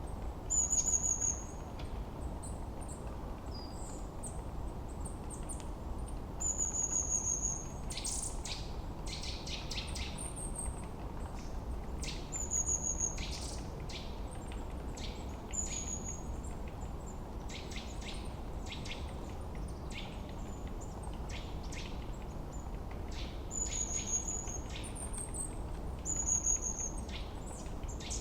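Several songbirds singing, with a short, high, slightly falling whistle repeated every few seconds over bursts of quick chirps. Under them runs a steady low rush of background noise.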